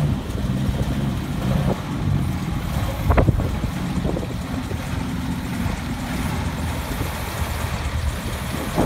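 Six-cylinder engine of a 1928 Essex Super Six idling steadily, just after starting. A short sharp knock about three seconds in.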